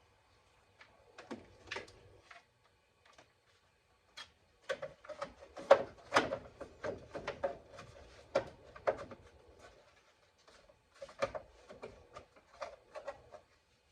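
Irregular clicks and knocks of parts and hand tools being handled, with a short ringing note after the sharper hits; busiest from about four to nine seconds in, with another cluster near the end.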